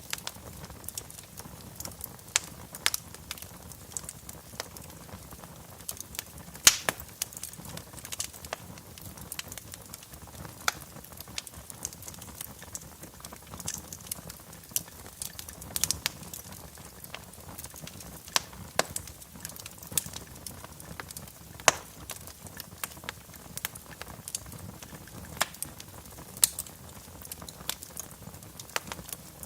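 Wood fire crackling in a fireplace, with sharp irregular pops and snaps, several louder ones standing out, over a steady low rush of the flames.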